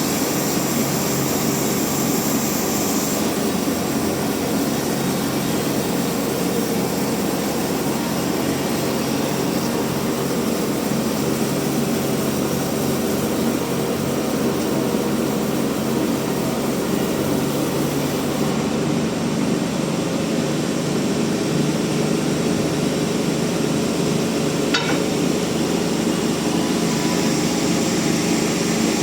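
Large band sawmill running steadily, its blade cutting through a rain tree (trembesi) log, a loud continuous machine drone with a brief sharp tick near the end.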